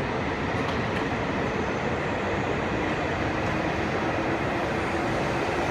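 E5 series Shinkansen train running, a steady rush of noise with a faint steady hum.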